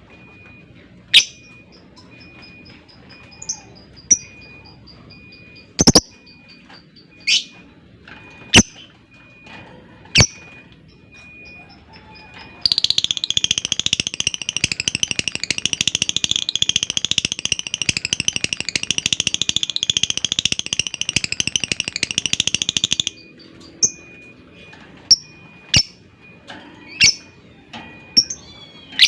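Lovebird calling: sharp single chirps and a quick run of ticking notes, then a long, dense, high-pitched chattering trill (ngekek panjang) of about ten seconds that cuts off suddenly, followed by more sharp chirps.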